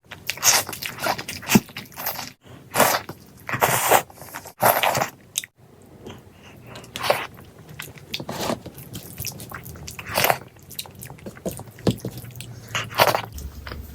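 Close-miked eating: repeated bites and chewing of chicken curry, in short irregular mouth sounds. Several abrupt cuts to silence come in the first half.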